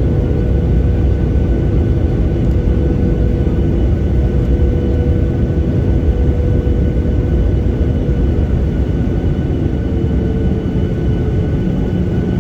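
Boeing 737-800 on final approach heard from inside the passenger cabin: a steady rumble of airflow and CFM56 turbofan engines with a level engine whine. Near the end the engine tones shift slightly.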